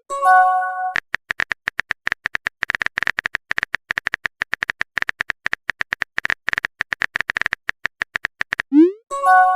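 Chat-app typing sound effect: a fast run of short clicks. A brief chime-like message tone of a few steady notes sounds just after the start, and another sounds near the end, straight after a quick rising swoosh.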